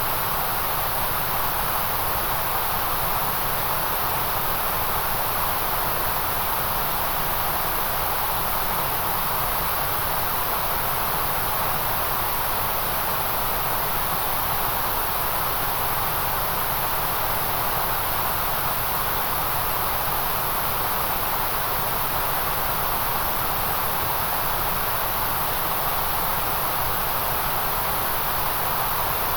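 Steady, unchanging white noise: an even hiss with a bright high edge and no rhythm or breaks.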